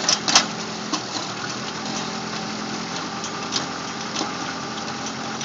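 45-horsepower Kubota tractor engine running steadily, driving a PTO post hole auger boring into the ground. Several sharp knocks and clatters in the first second and a half, with a couple more later, as the auger hits rocks.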